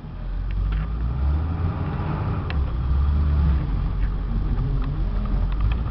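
Ford 7.3-litre Power Stroke V8 turbo-diesel running at a steady low rumble, heard from the truck.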